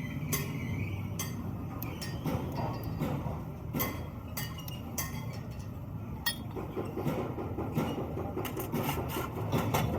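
Metal parts and hand tools clinking and scraping in irregular, sharp strikes over steady low background noise during work on a screw compressor.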